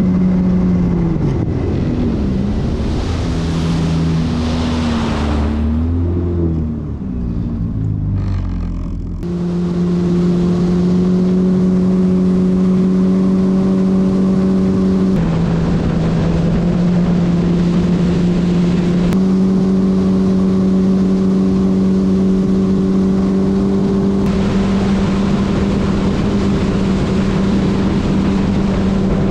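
Yamaha FX Cruiser HO WaveRunner's four-stroke engine and jet pump running under way. For the first several seconds its pitch rises and falls with the throttle, with a burst of hissing noise partway through. From about nine seconds in it settles to a steady cruising pitch, dips briefly a few seconds later and comes back up.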